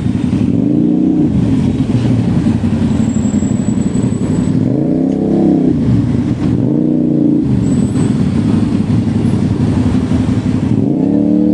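A vehicle engine running close and loud, its pitch rising and falling about four times as it is revved up and eased off.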